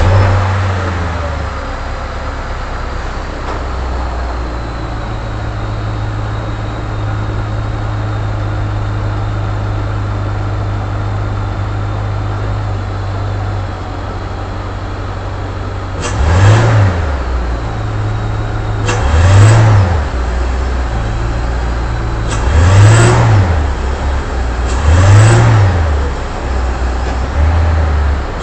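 Cadillac STS-V's supercharged 4.4-litre V8, breathing through a Spectre aftermarket intake, settling to a steady idle just after starting. In the second half it is revved four times in short blips, each rising and falling back to idle.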